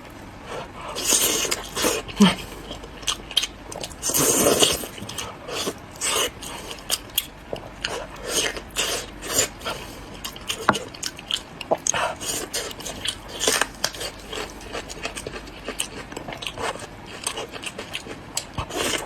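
Close-miked eating: a person biting and chewing food, with many quick, irregular wet smacks and clicks from the mouth.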